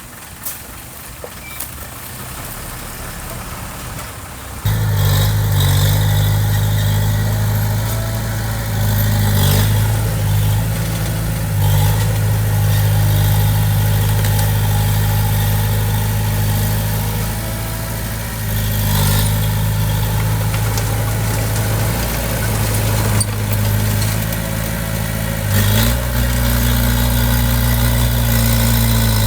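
Diesel engine of heavy construction equipment. Quieter machinery noise comes first; then the engine is heard running steadily and close, starting abruptly about four and a half seconds in. Near the end its pitch steps up a little.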